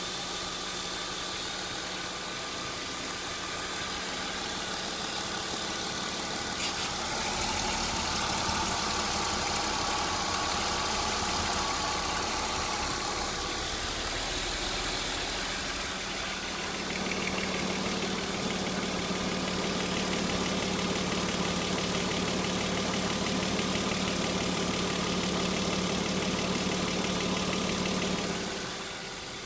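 BMW E46 320i's M52 straight-six engine running at idle, with a rattle coming from around the exhaust manifold. It gets louder about seven seconds in, and a steadier, deeper hum sets in about seventeen seconds in.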